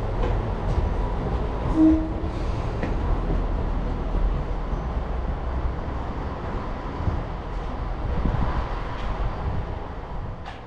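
Moka Railway train running, a steady rumble of wheels and engine that eases off slightly toward the end.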